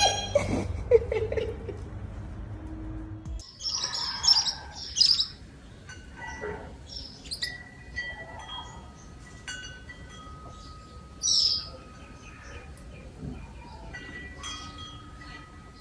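Short high chirps with a few held, whistle-like notes, like a small bird calling, heard from about three and a half seconds in. Before that come a few knocks over a low hum.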